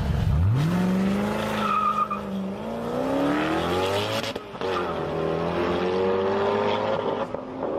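Supercar engine accelerating hard, its pitch climbing through the revs, with a gear change about four and a half seconds in, after which it pulls on steadily.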